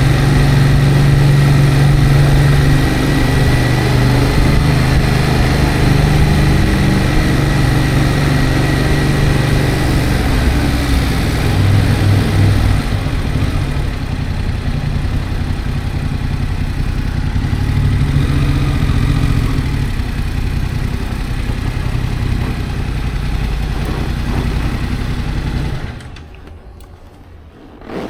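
Motorcycle engine running on the road, its pitch shifting as the speed changes, then cut off abruptly near the end to quiet room sound.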